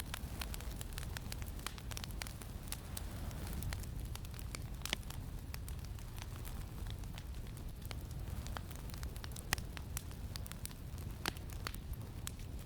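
Wood campfire crackling, with irregular sharp pops and snaps, a few louder ones standing out, over a steady low rumble of wind.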